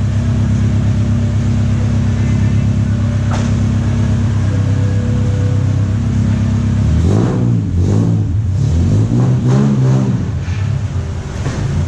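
Car engine running steadily, then revved up and down several times from about seven seconds in. The engine has just been cranked on a weak battery.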